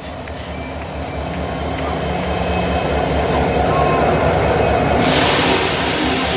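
Train rolling past, its low rumble building steadily, with a sudden jump in wheel and rail noise about five seconds in as the cars come by.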